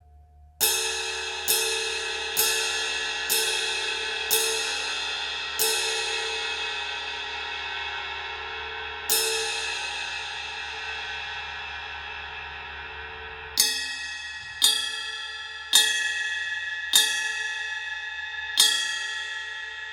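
A 20-inch Anatolian EGE ride cymbal struck with a stick, one stroke at a time, each left to ring and slowly die away. After a pause in the middle, a second set of five strikes rings with a clearer, more pinging tone.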